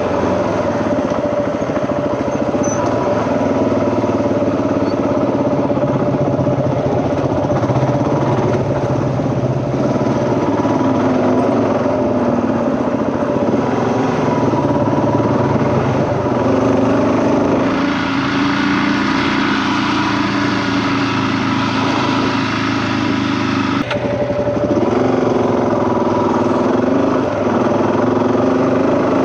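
Off-road vehicle engine running steadily while being ridden over loose gravel. The engine note changes with the throttle about two-thirds of the way through, then settles back after a brief knock.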